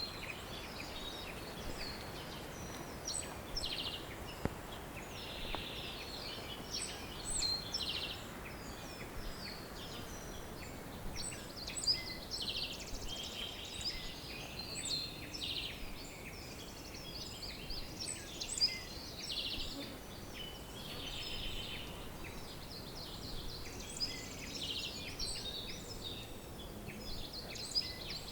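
Many birds singing at once, a dense chorus of overlapping chirps, trills and whistles, over a steady background hiss.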